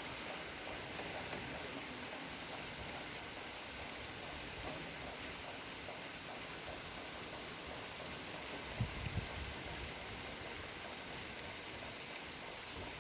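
Steady rain falling, an even hiss, with a couple of short low thumps about nine seconds in.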